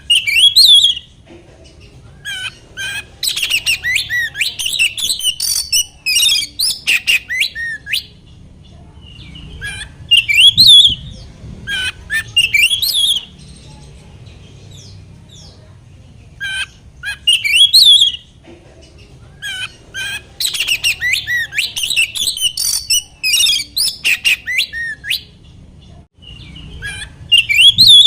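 Oriental magpie-robin (kacer) singing in loud phrases of rapid chirps and sharp whistles, with pauses of a second or two between phrases. A faint low hum runs underneath.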